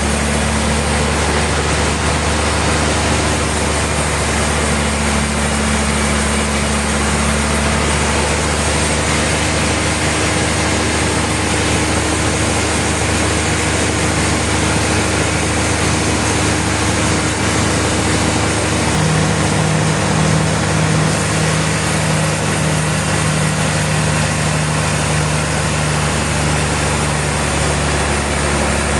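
Sawmill machinery running steadily: a continuous loud engine-like drone with dense mechanical noise. A new steady low tone joins about two-thirds of the way in.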